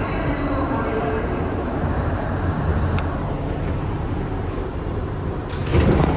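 Kawasaki R62 subway car running along the track: a steady low rumble of wheels and running gear. About five and a half seconds in, a louder hissing burst of noise joins it.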